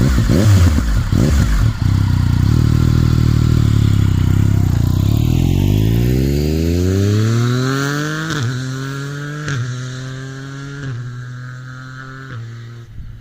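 2019 Yamaha MT-09's three-cylinder engine through an Akrapovic carbon exhaust, loud up close, then accelerating hard away. Its pitch climbs and drops sharply at four quick upshifts as it fades into the distance.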